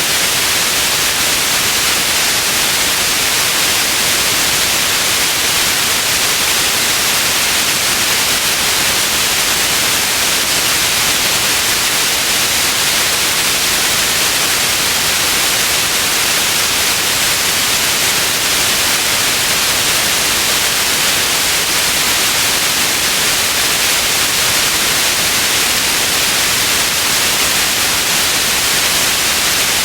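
Steady white noise: an even, unchanging hiss, strongest in the upper range, with no change throughout.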